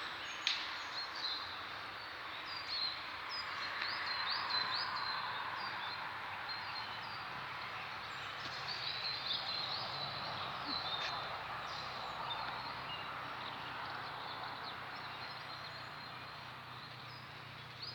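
Small birds chirping, many short high calls again and again, over a steady rushing background noise that swells and fades slightly, with a faint low hum under it in the second half.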